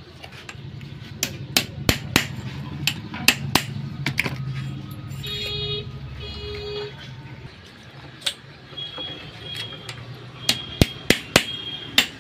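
Metal parts of a motorcycle rear shock absorber being handled and knocked together during reassembly: a string of sharp clinks and taps over a low steady hum. Two short beeps sound a little past the middle.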